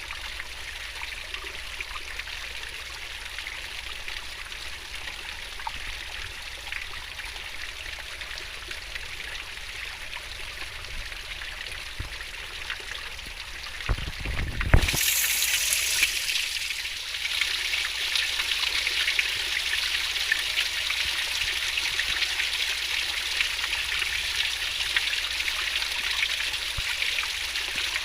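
Steady rush of swiftly flowing river water. About halfway through there is a brief low thump, after which the water sounds louder and brighter.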